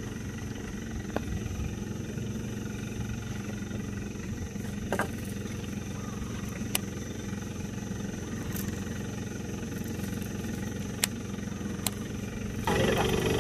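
Boat's outboard motor running steadily at trolling speed, with a few faint ticks. The sound gets suddenly louder about a second before the end.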